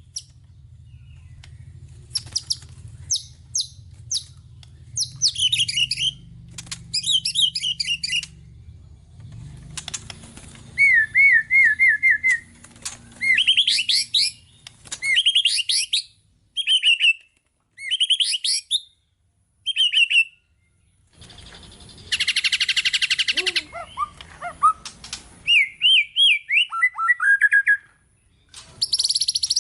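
White-rumped shama (murai batu) singing a varied song of separate whistled phrases, quick rising trills and chirps, with mimicked fill-in calls of other birds; a harsh buzzy note comes about two thirds of the way in.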